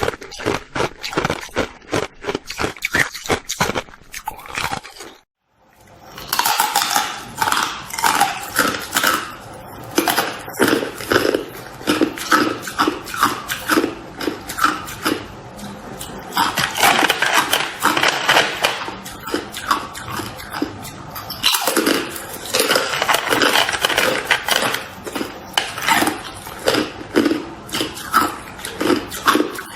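Close-miked crunching of hard ice being chewed: a dense run of crackling, splintering bites, with a brief break about five seconds in.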